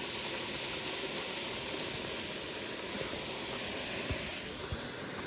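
Steady hiss of cabbage cooking on the stove, with a couple of soft knocks about four seconds in.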